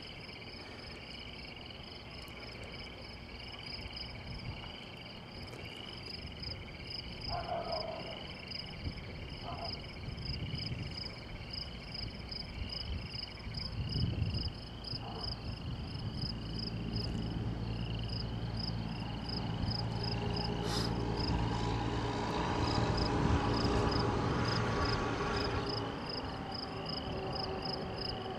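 Insects chirping in a steady, evenly repeating rhythm, with a low engine-like hum that swells in the second half.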